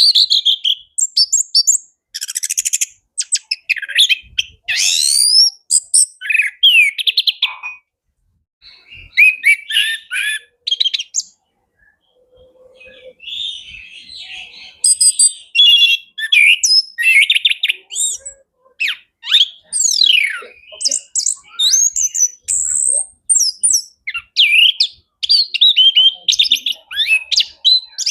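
Chestnut-capped thrush (anis kembang) in full song: a rapid, varied stream of whistles, trills and rattling notes packed with mimicked phrases. There are short breaks about eight and twelve seconds in.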